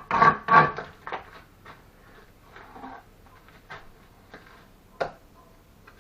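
Bricklaying work: two loud scraping knocks near the start, then scattered light taps and clicks, with one sharper knock about five seconds in.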